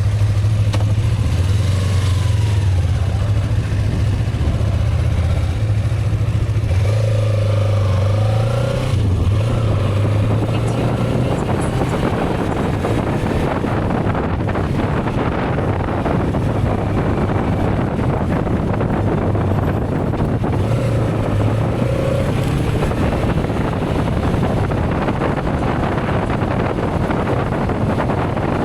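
Motorcycle engine running at low road speed. After about ten seconds its low note fades under rising wind noise on the microphone as the bike picks up speed.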